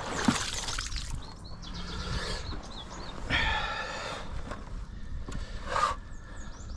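Small knocks and rattles as a freshly caught smallmouth bass is handled and measured, with birds calling now and then, including one longer call a little past the middle.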